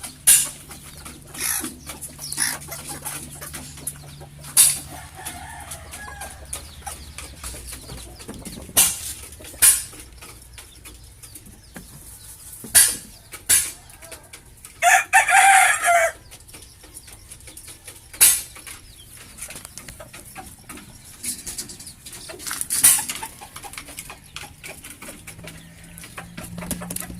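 Bantam chickens clucking in short scattered calls, with one louder call lasting about a second roughly halfway through.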